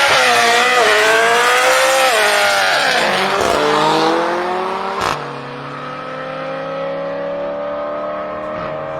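BMW performance car engine accelerating hard, its pitch wavering and then falling. After a sharp break about five seconds in, a quieter engine note rises steadily.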